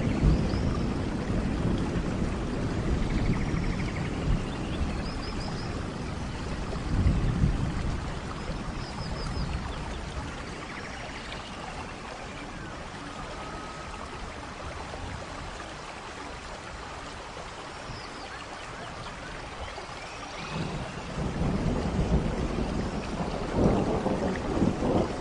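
Steady rainforest rain with rolling thunder: a deep rumble at the start that fades away, then swells again near the end. A few faint, short high chirps sound now and then over the rain.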